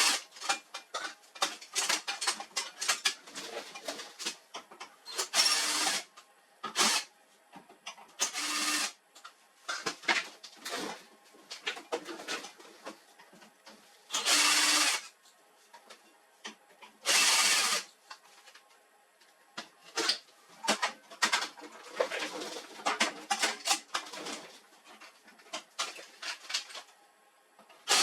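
Several short runs of an electric screwdriver driving screws, each lasting under a second, with the clicks and clatter of screws and plastic printer panels being handled between them.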